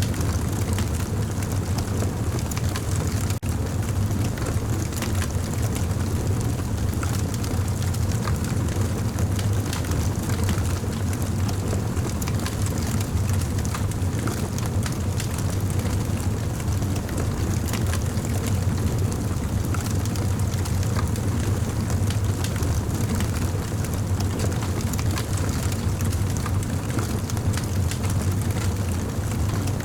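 Campfire burning with a steady low rumble and many small scattered crackles.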